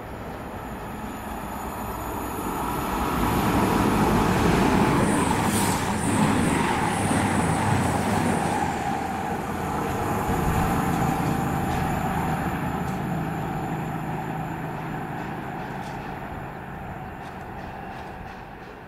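A train going by: the sound builds over the first few seconds, is loudest from about four to twelve seconds in, with a brief high whine near the peak, and fades away toward the end.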